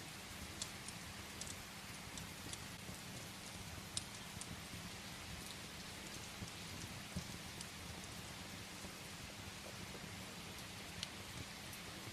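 Steady rain falling against a window, mixed with the scattered sharp crackles and pops of a wood fire burning in a fireplace; the loudest pop comes about four seconds in.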